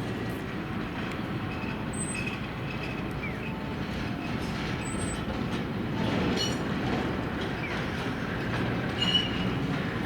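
Tram running on its rails: a steady rumble with a few brief, high, thin wheel squeals.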